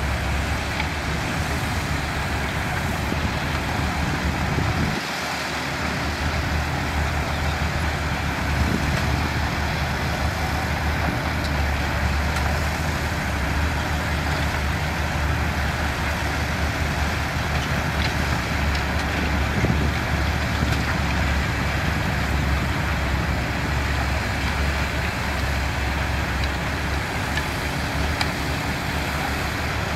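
Heavy construction machinery running steadily: the diesel engine of a bulldozer or dump truck, with a brief dip in the low hum about five seconds in.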